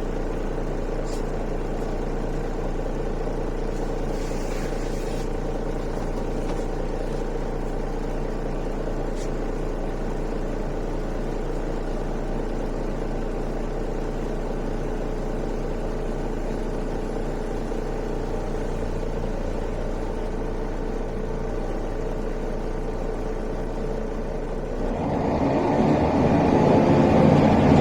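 Mercedes-Benz O405 city bus engine running steadily at a low, even speed, then working harder and growing louder about three-quarters of the way through as the bus pulls away or accelerates.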